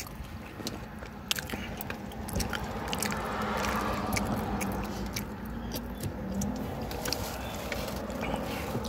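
Close-up chewing of a burrito, with scattered wet mouth clicks and light crinkles over a steady low hum.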